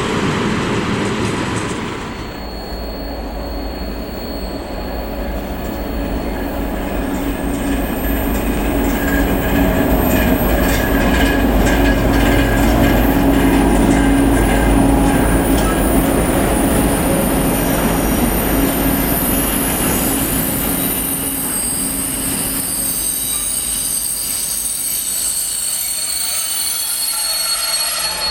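Diesel locomotive hauling a freight train of container wagons past, its engine running with a steady low hum. From several seconds in, high-pitched wheel squeal joins the rumble of the wagons as they roll by.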